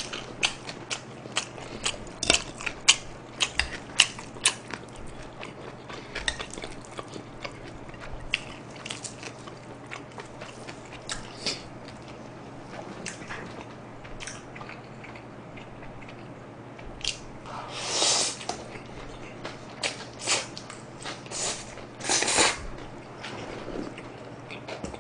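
Close-miked chewing of pizza and spaghetti: many crisp crunching clicks in the first few seconds, softer chewing after that, and two longer, louder mouth sounds past the middle as a forkful of spaghetti is eaten.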